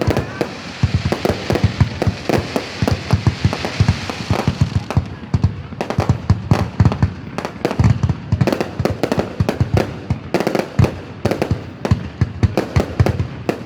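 Fireworks going off in a rapid, continuous string of bangs, several a second, with a crackling hiss over the bangs in the first few seconds.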